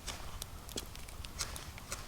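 Irregular sharp clicks and snaps, several a second, over a low rumble.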